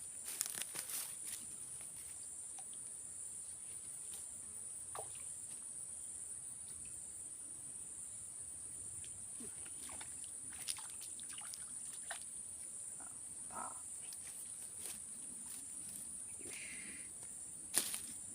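Steady high-pitched drone of insects, like crickets, with scattered small clicks and rustles and one sharper click near the end.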